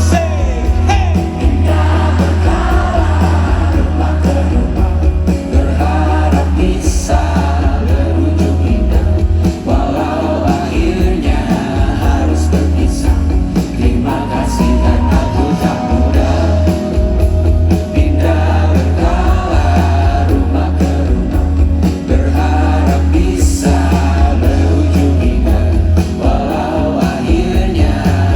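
Live band music with singing and strong bass, recorded from the audience on a phone.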